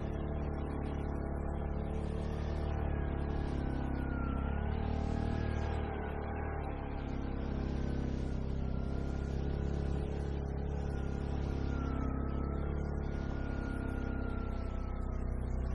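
A vehicle engine running steadily while driving, with a faint whine that wavers slightly in pitch.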